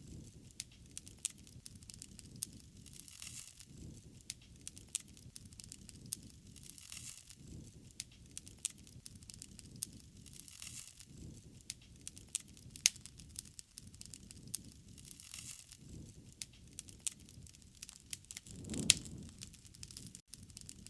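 Wood fire crackling, with frequent sharp pops over a low rumble of flames that swells and fades every few seconds. A louder flare-up comes near the end.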